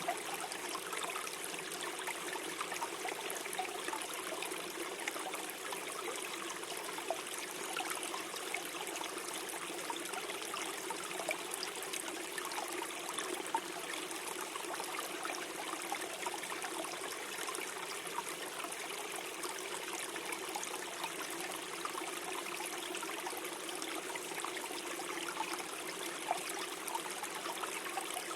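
Small forest stream flowing and trickling steadily, a constant gurgle of water over stones with small splashes dotted through it.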